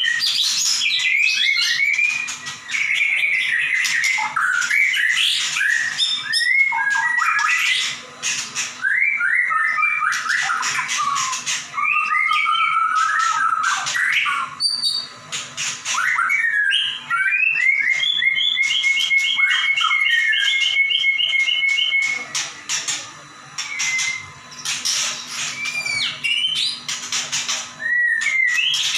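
White-rumped shama (murai batu) singing loudly and without pause, in full song: varied whistles, rising and falling slurred notes and sharp clicking calls. About two-thirds of the way through comes a long run of fast repeated notes.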